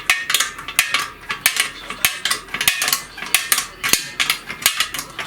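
Wrench working a stubborn bolt on the fuel tank mount of a walk-behind tractor: quick, uneven metallic clicks and clinks, several a second.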